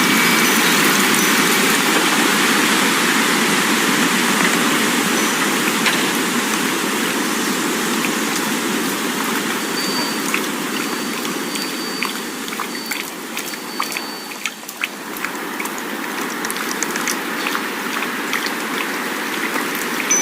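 Wind blowing steadily, with wind chimes ringing softly at the start and again from about halfway. Scattered light ticks join in during the second half, and the wind eases briefly about three quarters of the way through.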